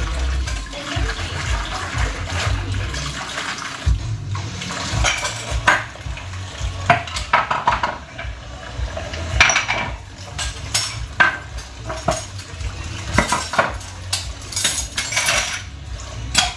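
Dishes and cutlery clinking and clattering, many irregular knocks over a steady low hum, as of dishes being washed and put away.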